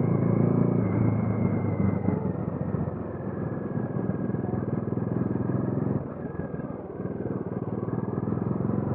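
Bajaj Dominar 400's single-cylinder engine and exhaust pulling along at road speed. It eases off about six seconds in and then picks up again.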